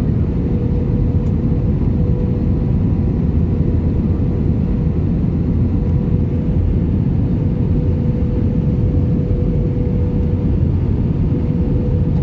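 Passenger airliner cabin noise: a steady low rumble of engines and airflow with a steady hum.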